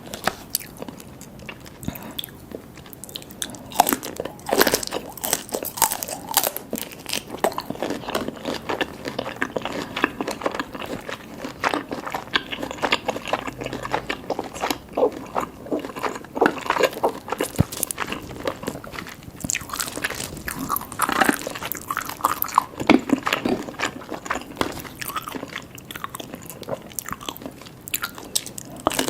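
Close-miked eating of seafood: repeated biting and chewing, with many sharp clicks and crunches throughout. The bursts are loudest about a sixth of the way in and again about three-quarters of the way through.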